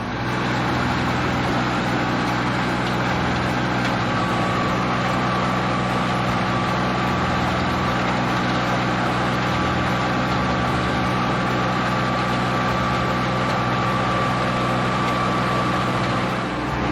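Iseki Geas AT340 tractor's diesel engine running steadily under load, pulling a wing harrow through a flooded paddy. A thin high whine joins in about four seconds in.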